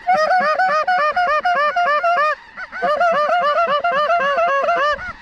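Snow goose calls: many rapid, overlapping high yelping honks, several a second, with a brief lull about two and a half seconds in.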